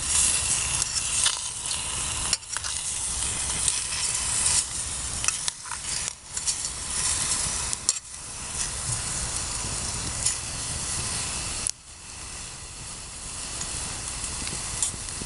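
Bratwurst sausages sizzling and frying in a pot over a campfire: a steady crackling hiss, with a few brief dips in level.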